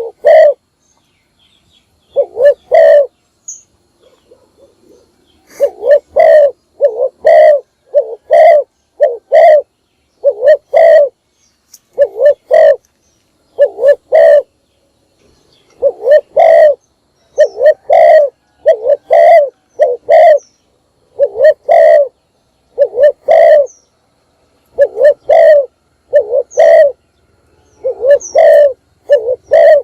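Spotted dove cooing over and over: short phrases of two or three throaty coos, repeated every second or two with brief pauses, a longer pause about four seconds in. It is a decoy dove's call used to lure wild doves.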